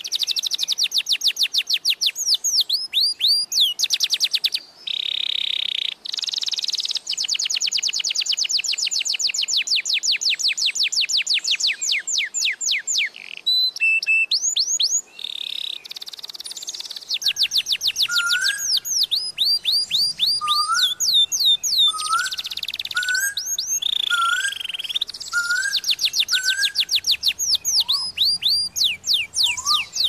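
Small birds chirping in fast runs of high, clear, descending notes, several a second, broken by a few short pauses. In the second half a second, lower rising call repeats about once a second.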